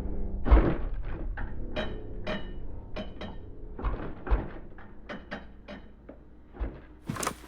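Foley hits and cracks of the kind recorded for bone breaks: a string of sharp knocks about two a second, with a heavy thump about half a second in, growing fainter. Near the end, brighter, sharper clacks begin.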